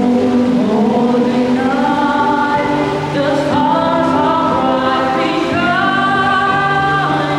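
Children's choir singing a Christmas carol in harmony, holding long notes that step upward in pitch over a steady low accompaniment.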